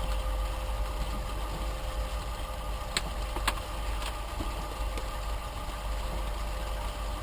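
Steady hum of a small electric fan running, with two light clicks about three seconds in.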